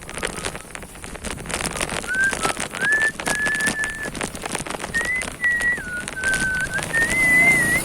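Rattling and clicking of a bicycle riding over a rough trail, with a high, whistle-like tone that holds steady and then jumps between a few pitches.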